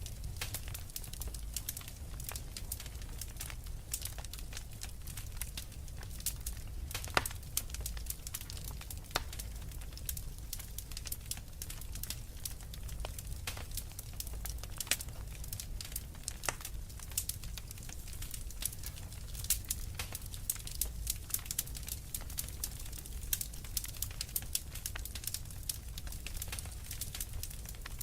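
Wood fire crackling in a fireplace: irregular sharp pops and snaps throughout, a few louder ones about seven and fifteen seconds in, over a steady low rumble of blizzard wind.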